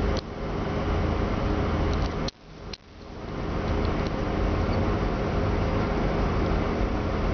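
Bosch 0 130 303 243 electric radiator cooling fan running steadily over a UMZ-4216 four-cylinder petrol engine at idle; the fan is on because the coolant has passed its 92 °C switch-on point. The sound drops out sharply for about half a second a little over two seconds in.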